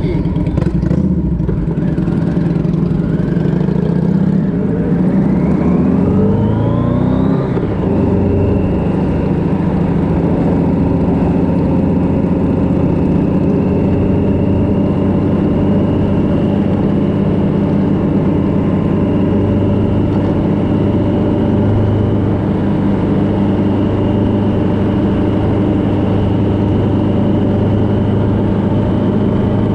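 Vehicle engine accelerating, its pitch rising for about five seconds, then running steadily at cruising speed under constant road and wind noise.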